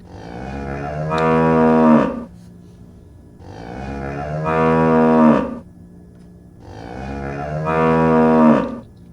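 A cow mooing three times: long lowing calls about a second and a half apart, each growing louder and then dropping in pitch as it ends.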